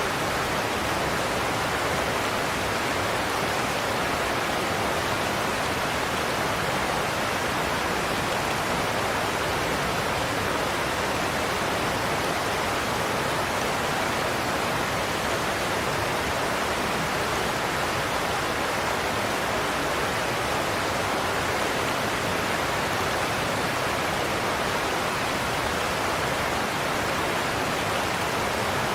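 Godafoss waterfall in Iceland: water pouring over the falls in a steady, unbroken roar.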